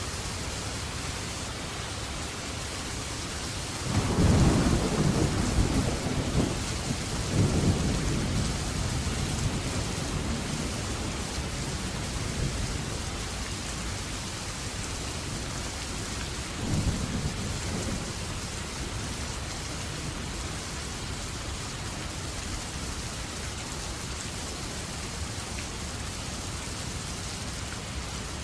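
Steady rain falling, with rolling thunder: a long low rumble starting about four seconds in and lasting several seconds, and a shorter, fainter rumble just past the middle.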